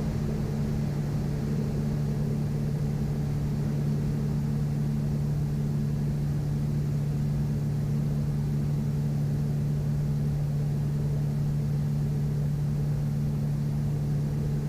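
Steady cockpit drone of a Piper Navajo Panther's twin piston engines and propellers in level flight, a constant low hum.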